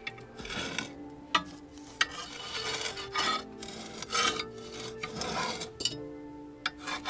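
Repeated rough scraping and rubbing strokes, about six over a few seconds, with a little metallic clatter, over soft background music with held notes.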